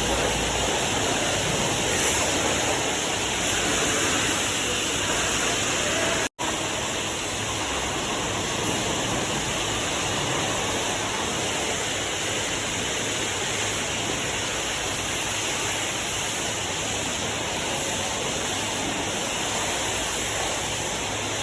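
High-pressure water spray washing a truck: a steady, even hiss, broken once by a brief dropout about six seconds in.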